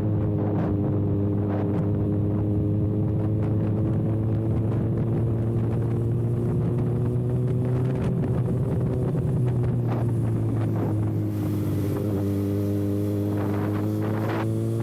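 Kawasaki ZX-6R inline-four running with its exhaust canister removed, holding a steady engine note while cruising, the pitch easing slightly about two-thirds of the way through and then picking up again.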